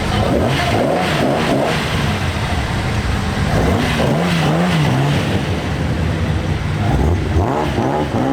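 Modified car's engine and exhaust running with repeated revs, the pitch rising and falling several times.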